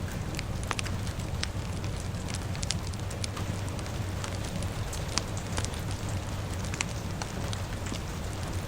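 Fire crackling with irregular sharp pops over a steady hiss of rain.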